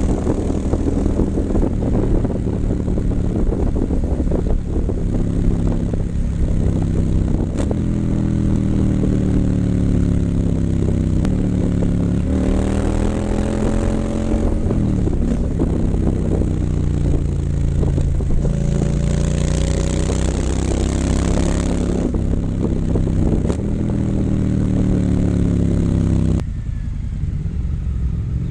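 2019 Triumph Scrambler 900's parallel-twin engine through an H-pipe and Vance & Hines exhaust, under way. The engine note climbs and drops again several times as the revs rise and fall. Near the end it falls lower and quieter.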